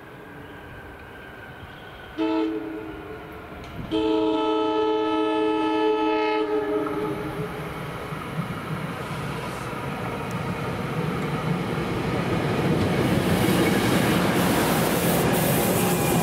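NJ Transit Arrow III electric multiple-unit train sounding its horn: a short blast about two seconds in, then a long blast from about four seconds to nearly seven, the close of a grade-crossing horn signal. Then the train's rumble and wheel clatter grow as it comes in and passes close by, loudest near the end.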